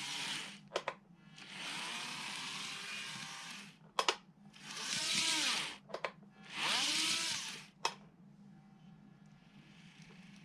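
N-gauge model train running on its track and passing close by several times. Each pass swells and fades over about a second and a half, with sharp clicks between passes. After about eight seconds it runs on more quietly.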